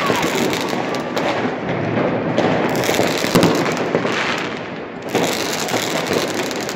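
Fireworks going off in a dense, continuous barrage of crackling pops, with a few louder bangs standing out.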